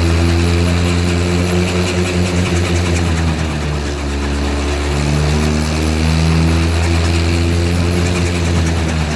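Homemade helicopter's engine and rotor running steadily during a ground test, a loud low drone whose pitch wavers slightly about halfway through.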